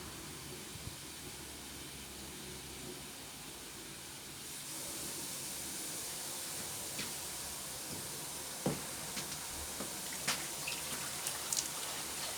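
Water running steadily, growing louder about four and a half seconds in, with a few light knocks and clicks in the second half.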